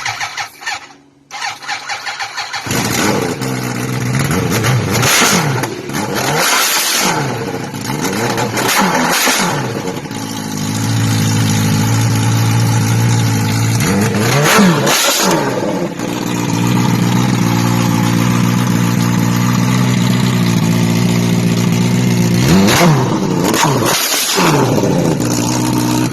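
Supercharged 2007 Yamaha R1 inline-four, built with forged pistons and titanium rods, cranking on the starter in short pulses and catching on its first start-up about three seconds in. It then runs steadily, revved up and down several times, and is shut off abruptly near the end.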